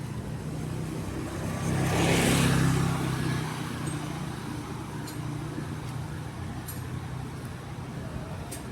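Street traffic on a wet road: a vehicle passes close, its tyre hiss and engine swelling to a peak about two seconds in and then fading, over a steady low engine hum.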